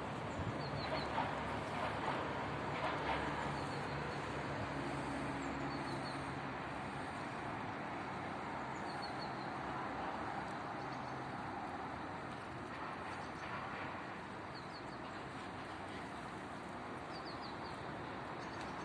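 Steady outdoor background noise with brief, faint high chirps scattered through it.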